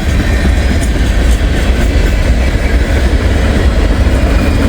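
Freight train cars rolling past at close range: a steady loud rumble of wheels on rail with some clickety-clack.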